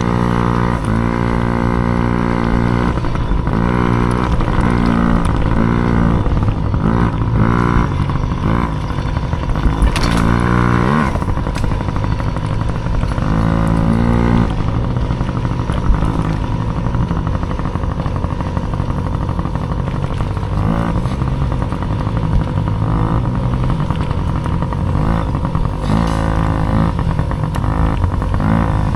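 Small racing dirt bike engine revving up and down over and over as the throttle is opened and closed, with quick rising sweeps that break off and start again.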